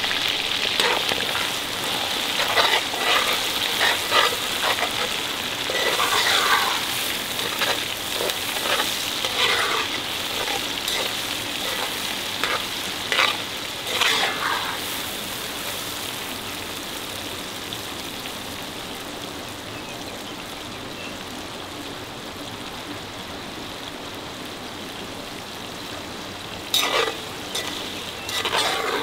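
Food frying in a pan with a steady sizzle, and a utensil stirring and clattering against the pan. The clatter comes in bursts through the first half and again near the end.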